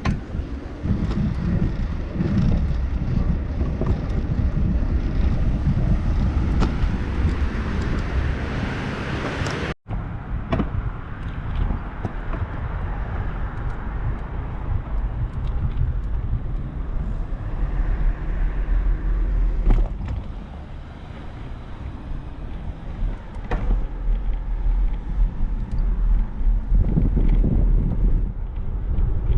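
Steady wind rumble on the microphone of a moving bicycle, with car traffic going by on the road. The sound drops out briefly about ten seconds in.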